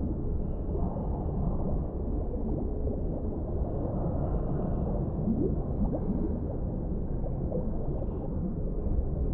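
Underwater ambience: a steady, muffled, deep rumble of water with faint brief gurgles through it.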